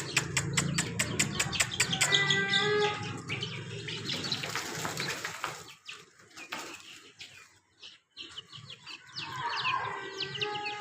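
A hen and her baby chicks let out of their cage: a fast, even run of taps, about seven a second, for the first two seconds, then the hen calling and the chicks peeping. It goes quieter in the middle, and short high falling peeps pick up again near the end.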